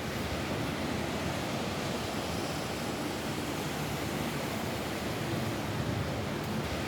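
Steady rain falling on a roof: an even, unbroken hiss of rain noise.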